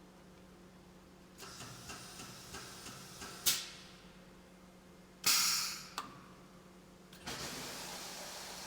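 Hydraulic testing machine: a steady low hum with a run of light clicks, two sharp hissing bursts, the second louder and longer, then a steady rushing hiss that sets in near the end.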